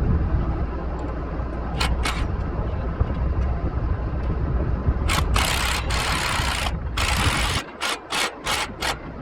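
A wrench ratcheting a replacement bolt tight on a stalk chopper's harrow: a few long scraping strokes, then a run of short quick ones near the end. A tractor engine runs steadily underneath.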